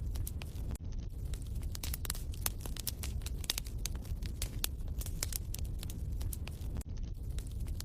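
Wood fire crackling in a fireplace: a low rumble of flames with frequent sharp pops and snaps, briefly dropping out about a second in and again near the end.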